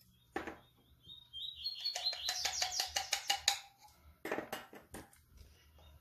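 A songbird chirping in a quick run of short notes that step upward in pitch over about two seconds. Alongside it come scraping and clicking as a metal spoon pushes soft bird-food paste into a plastic feeding syringe.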